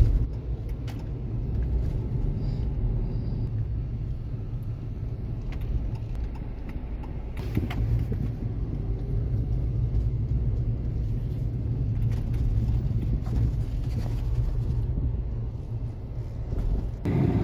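A car engine idling, a steady low rumble, with a few faint clicks over it.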